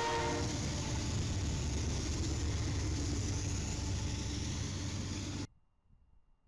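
Freight train passing behind BNSF and KCS diesel-electric locomotives: a locomotive horn chord ends about half a second in, then the low rumble of the locomotives and rolling cars, which cuts off suddenly about five and a half seconds in.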